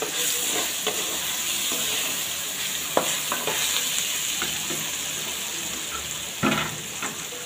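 Grated raw mango and tempering sizzling in hot oil in a metal kadai, stirred with a wooden spatula, with small scrapes against the pan. A sharp knock comes about three seconds in and a louder one near the end, while the sizzle slowly dies down.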